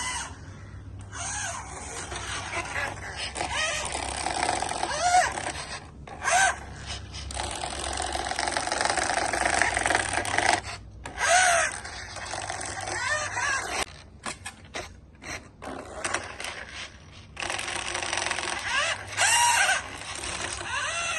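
Electric motor and gears of a vintage 1/16 ready-to-run RC car, the Daishin Maserati Bora, running in stop-start stretches with a gear whine that rises in pitch as it speeds up. There are several brief stops, and a run of short jabs between about 14 and 17 seconds.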